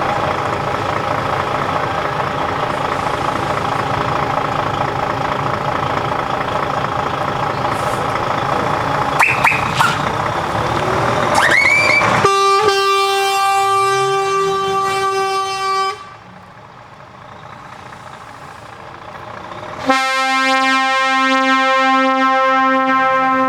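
Truck air horns sounding over running engines: several horn tones together at first, then one long steady horn blast, a short lull, and a second, lower horn blast near the end.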